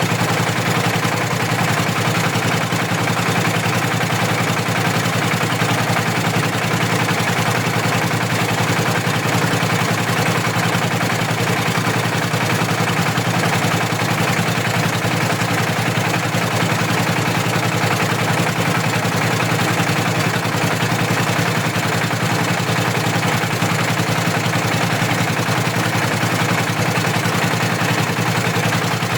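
A ship's engine running steadily: a constant, unchanging engine drone.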